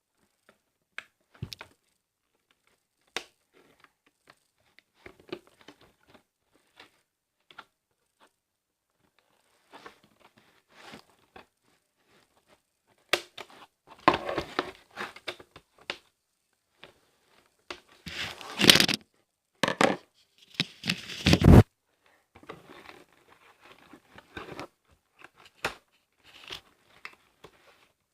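Cardboard and plastic doll packaging being cut and torn open by hand: scattered clicks and scrapes with bursts of tearing and crinkling, loudest about two-thirds of the way through.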